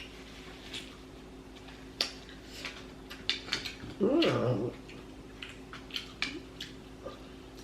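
Close-up eating sounds: lip smacks and wet chewing clicks, scattered through. About four seconds in comes one louder, brief wavering sound that rises and falls in pitch.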